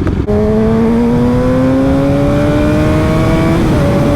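Sport motorcycle engine accelerating, its pitch climbing steadily for about three seconds, then dropping with an upshift near the end and holding steady, over a steady rush of wind noise.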